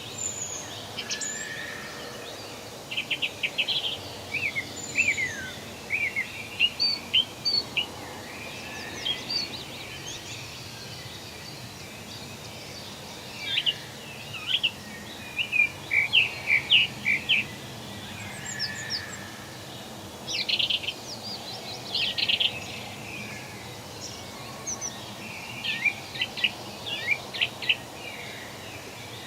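Several songbirds chirping and calling in quick clusters of short, high notes, with a brief lull near the middle, over a steady background hiss of forest ambience.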